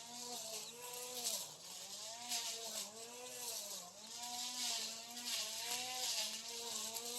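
Battery-powered brush cutter running and cutting grass, its motor pitch dipping and recovering again and again as the cutting head bites into the weeds, with a hiss of cut grass swelling in patches.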